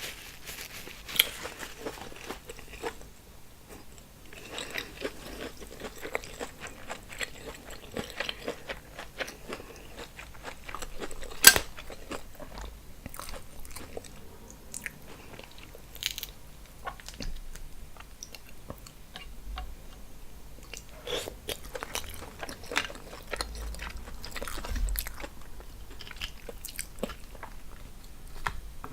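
A person eating seafood boil close to the microphone: chewing and biting mouth sounds with many short clicks and crackles, the loudest a sharp click about eleven seconds in.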